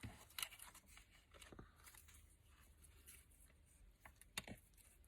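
Faint, scattered rustles and light taps of paper and card pieces being handled and laid down, a few separate short sounds with near quiet between them.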